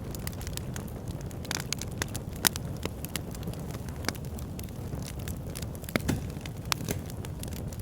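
Fire in a backyard fire pit crackling: irregular sharp pops and snaps over a steady low rumble of the flames, with the strongest pops about two and a half seconds and six seconds in.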